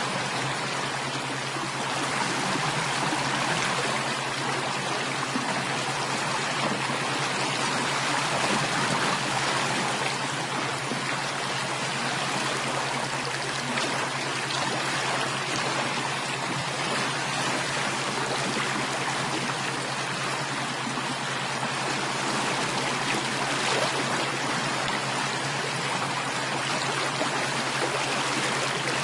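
Running water flowing steadily like a stream, an unbroken rushing and trickling with no pauses or changes, over a low steady hum.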